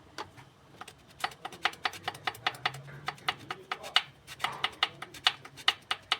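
Hyundai Solaris piston from the 4th cylinder being rocked by hand, clacking sharply several times a second. The excess play behind the clacking is the cause of the engine knock.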